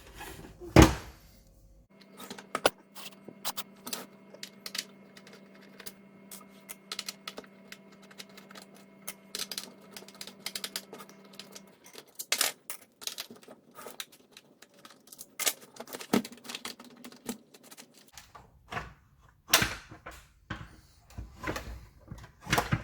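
Many small plastic clicks, taps and knocks from the casing and screws of a Dyson DC39 barrel vacuum cleaner being handled and taken apart, with a few louder knocks. A steady low hum runs underneath for about the first half.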